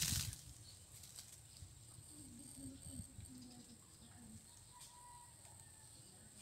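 Faint outdoor background with a distant bird cooing: a few low notes about two to four seconds in.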